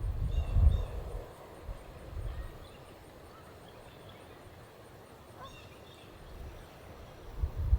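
Outdoor ambience with wind gusting on the microphone, strongest in the first second and again near the end. Faint, short bird calls come twice, about half a second in and again about five and a half seconds in.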